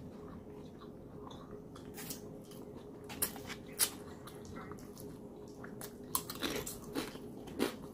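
Mouth eating sounds: soft chewing with scattered wet clicks, then a few crunchy bites into a chip about six seconds in.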